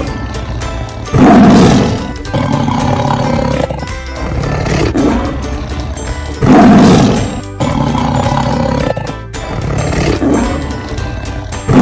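Tiger roaring twice, about five seconds apart, each roar lasting about a second, over background music.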